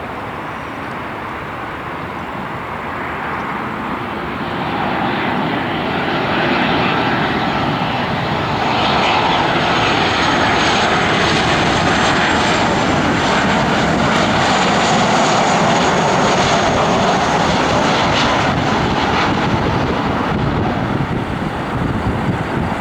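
Engine noise of a passing airplane. It grows louder over several seconds, stays loud for about ten seconds with a thin high whine on top, then eases off a little near the end.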